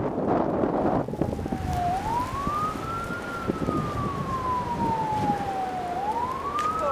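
A siren wailing, its pitch rising and falling slowly, with one full slow fall lasting about three seconds before it climbs again near the end. Wind buffets the microphone underneath, most strongly in the first second.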